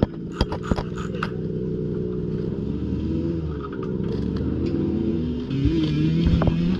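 Motocross dirt bike engine running at fairly low, steady revs, its pitch shifting slightly and rising a little near the end, with a few sharp clicks and clatter in the first second or so.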